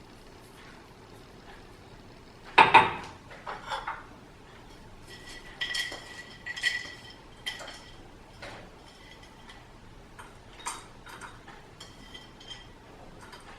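Glass jar being handled: a loud knock about two and a half seconds in, then scattered taps and clinks. Twice the glass rings on briefly, once in the middle and again near the end.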